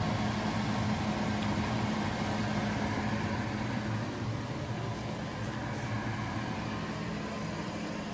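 Okra deep-frying in hot oil: a steady sizzle over a low, even hum.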